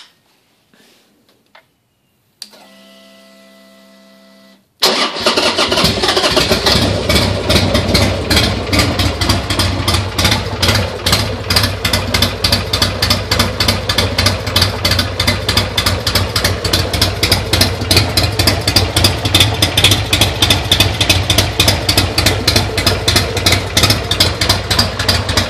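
Cold start of a 2004 Buell XB12S's air-cooled V-twin with an aftermarket Hawk exhaust on a chilly 45-degree morning. After a few faint clicks, a short steady whine sounds for about two seconds, typical of the fuel pump priming; then the engine catches suddenly about five seconds in and settles into a loud, pulsing idle, with the slight hesitation on starting that the owner puts down to the cold.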